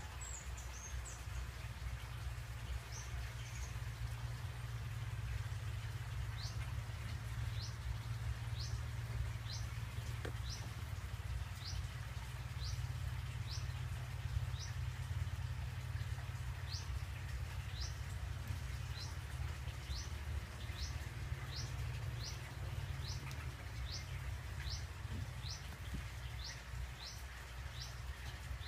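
A small bird chirping over and over, short high rising chirps a little more than once a second, over a steady low rumble.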